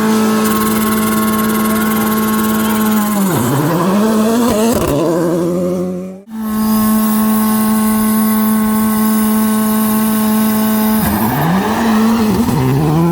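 A rally car's engine held at steady high revs on the start line, then launching: the pitch drops and climbs again through quick gear changes. After a cut about six seconds in, a second rally car holds its revs the same way and launches near the end.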